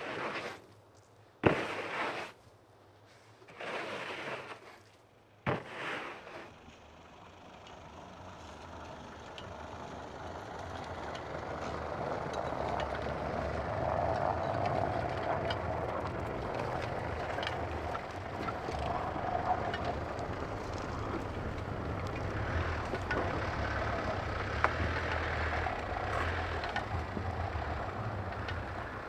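A few short scraping noises and two sharp knocks, then an engine that grows steadily louder for several seconds and keeps running evenly.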